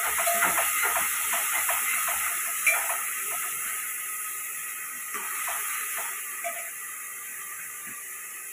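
Onions and tomatoes frying in ghee in an aluminium pressure-cooker pot, a steady sizzle that slowly fades, with taps and scrapes of a steel ladle stirring against the pot during the first few seconds.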